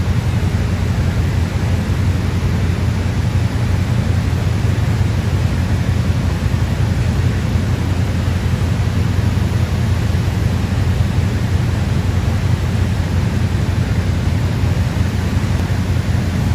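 Steady, loud, low rumbling noise that does not change, like a running fan or other machine.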